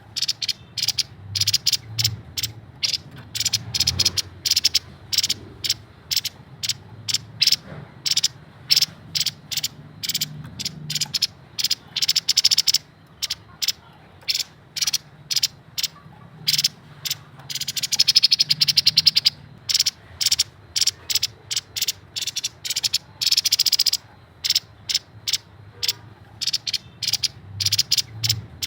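Grey-headed babbler singing: runs of rapid, sharp chattering notes several a second, broken by short pauses, with a denser trill about two-thirds of the way through.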